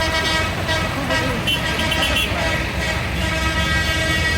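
Tractor engines running with a steady low rumble, under sustained horn tones.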